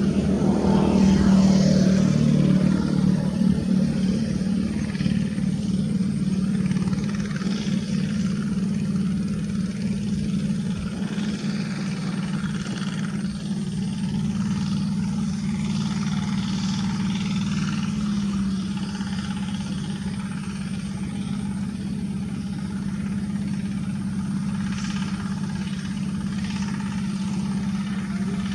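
A two-wheel rotary hand tractor's single-cylinder Kubota diesel engine running steadily, a little louder in the first few seconds.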